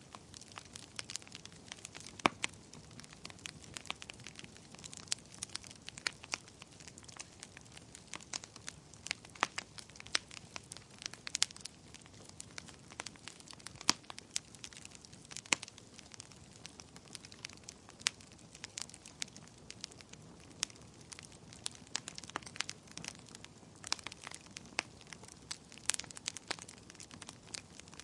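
Wood fire crackling: a steady soft hiss with irregular sharp pops and snaps, a few louder than the rest.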